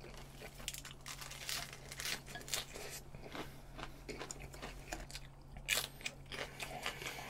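Close-up chewing of a mouthful of spicy stir-fried webfoot octopus wrapped in lettuce: irregular crunching and chewing, with no steady rhythm.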